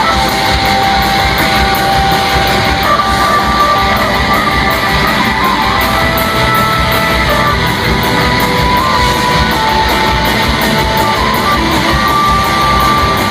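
Live rock band playing loud, with long held guitar notes stepping from pitch to pitch over a steady drum beat, ringing in a large hall.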